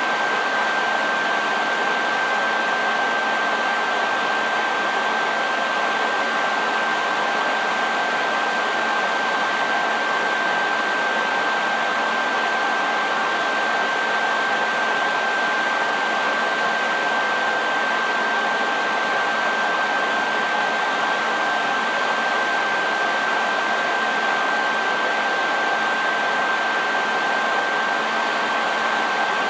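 Hair dryer running continuously at a steady speed: an even rushing of air with a thin, constant whine.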